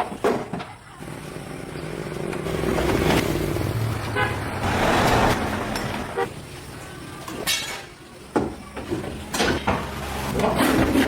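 A motor vehicle running, its noise swelling through the middle and then dropping away, with knocks and clanks in the last few seconds.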